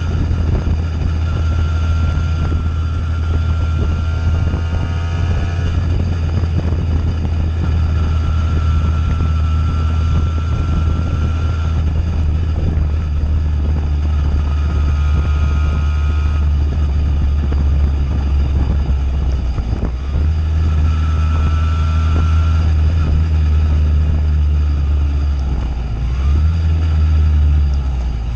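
Simson two-stroke moped with a JW 85G+ aftermarket exhaust running steadily under way. The engine note dips briefly about two-thirds through and again near the end, then climbs back up.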